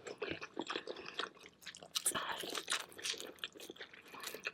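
Close-miked biting and chewing of a spicy seafood boil: a dense, irregular run of short wet clicks and small crunches.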